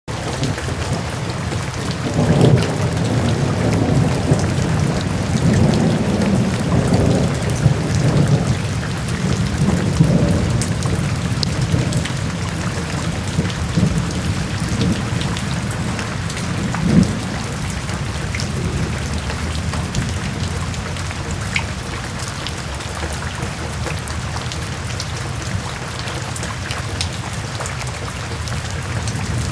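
Steady downpour of rain with rolling thunder rumbling through the first third or so, and a sharper thunderclap about halfway through.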